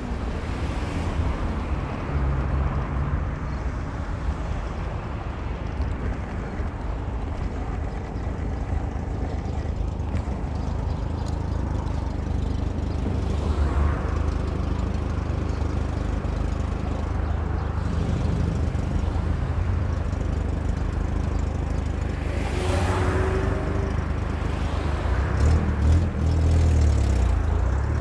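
Car driving through city traffic: a steady low engine and road rumble, with a couple of brief swells from other passing vehicles, one about halfway through and one near the end.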